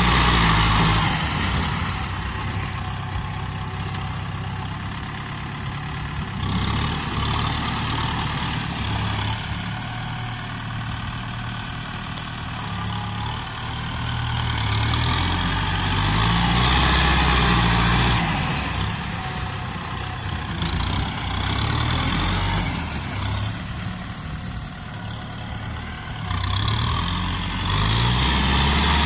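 Kubota M6040SU tractor's diesel engine running and revving up and down repeatedly, its pitch and loudness rising and falling over several seconds at a time.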